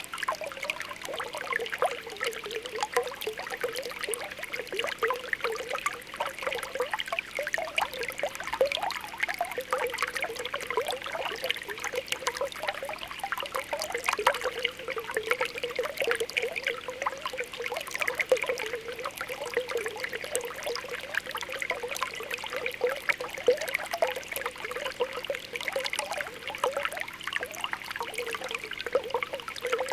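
Spring water welling up out of the ground, bubbling and popping in a steady, irregular stream of small pops.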